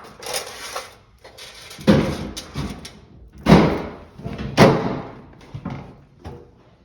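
Knocks and clatter of metal washing-machine parts being handled, with three louder bangs in the middle.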